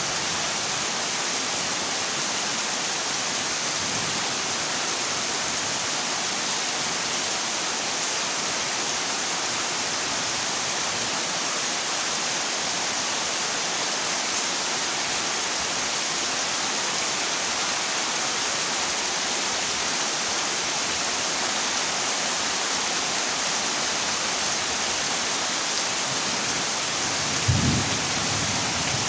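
Heavy rain falling steadily on a corrugated zinc roof, a dense even hiss. Near the end comes a brief low rumble of thunder.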